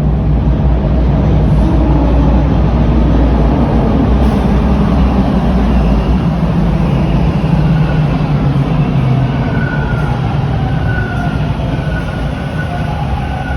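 TTC Bombardier T1 subway train running along the platform with a loud, steady rumble. Thin whining tones come in during the second half, rising into wheel squeal near the end.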